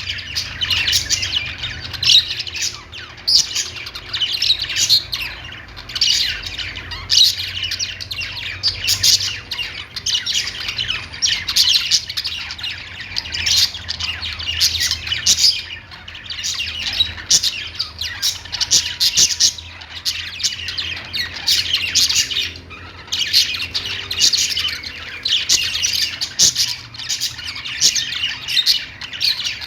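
Several pet budgerigars chattering, with dense overlapping chirps and squawks that barely pause. A faint low steady hum runs underneath.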